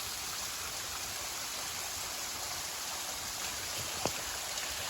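Steady rushing noise of water falling into the sinkhole after heavy rain, with a single click about four seconds in.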